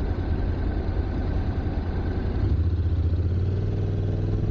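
Honda NC750X's parallel-twin engine idling steadily amid traffic. About two and a half seconds in, a stronger, steadier low hum comes in.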